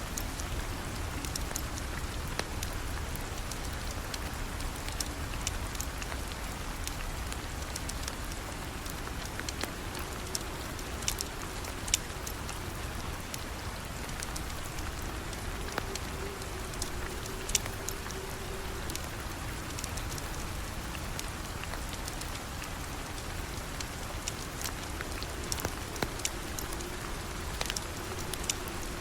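Steady rain falling, with scattered sharp crackles from a fireplace fire.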